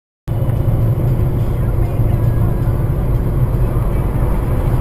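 Steady engine and road rumble of a moving vehicle, recorded by a dash cam. It starts abruptly about a third of a second in.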